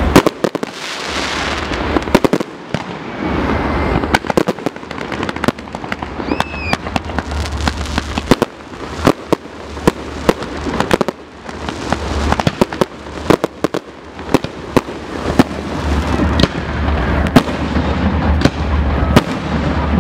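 Fireworks display: a dense, irregular run of sharp bangs and crackles from bursting shells, many a second, over a continuous low rumble.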